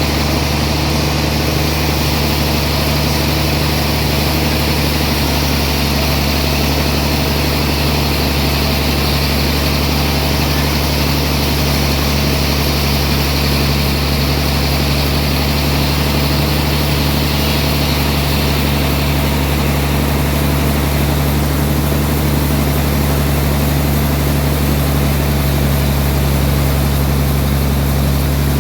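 Sawmill running steadily with a strong low hum, and a higher hiss that eases off about two-thirds of the way through.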